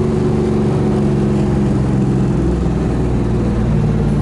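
Muscle car engine running with a steady deep drone, its pitch easing slightly and then rising a little near the end.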